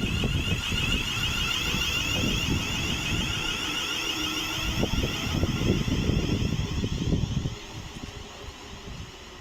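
Train passing through, a high whine of several steady tones over a low rumble, both fading away from about seven seconds in.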